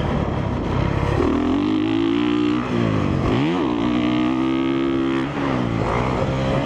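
2017 Honda CRF450R's single-cylinder four-stroke engine running hard under throttle. Its pitch falls sharply about three seconds in and climbs straight back, with a shorter dip just past five seconds.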